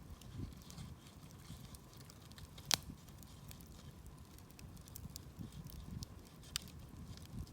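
Wood campfire burning: a low flutter of flames with scattered small crackles and two sharp pops, the louder about a third of the way in and another near the end.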